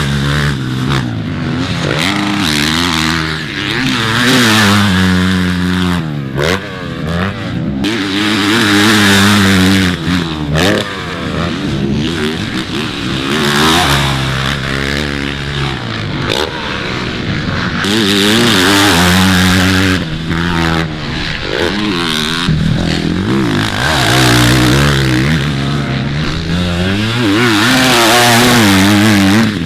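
Motocross dirt bikes racing, their engines revving up and backing off again and again as they accelerate, shift and let off around the track.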